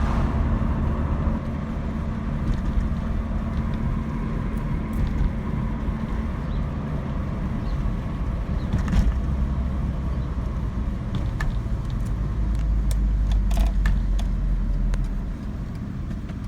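Saab 900's engine and road noise heard from inside the cabin while driving, the engine note settling lower near the end as the car slows toward an idle. A few light clicks sound here and there.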